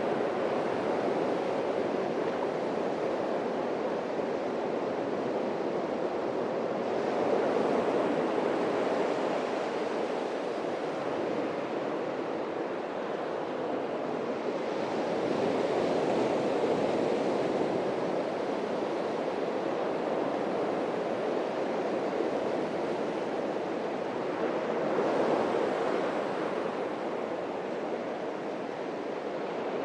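Atlantic Ocean waves breaking and washing up a beach: a steady rushing surf that swells louder three times, about every nine seconds, as each wave comes in.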